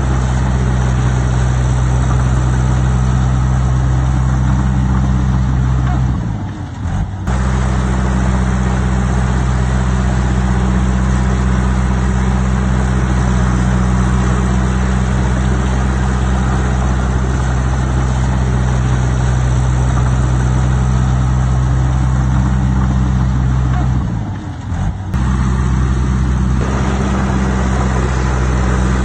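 Diesel engine of heavy earthmoving equipment running steadily under power. The engine note drops briefly twice, about six seconds in and again near twenty-four seconds.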